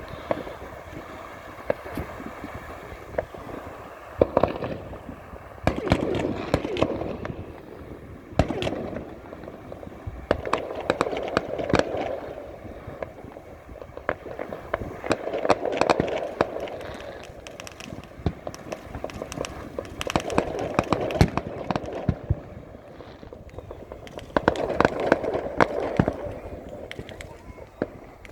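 Fireworks going off: many sharp bangs and crackles in quick, irregular succession, with the barrage swelling every few seconds.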